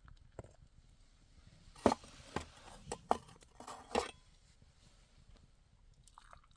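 About five sharp knocks or clatters in quick succession over roughly two seconds, the last one a little drawn out.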